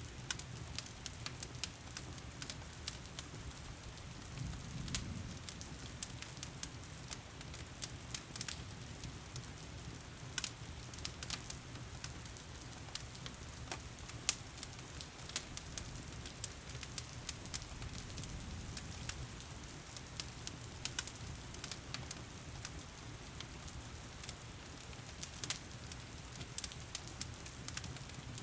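Wood fire crackling with frequent irregular sharp pops, over a steady hiss of heavy rain and a low rumble.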